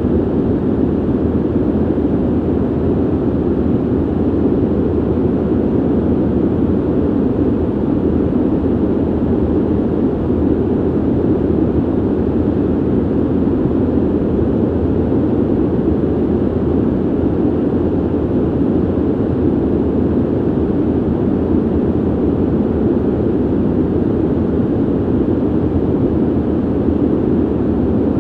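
Ventilation noise: a steady, unchanging rush of air, deep and dull with little hiss.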